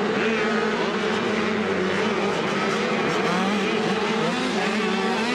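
Several 85cc motocross bikes racing together, their engines revving up and down over one another as riders work the throttle.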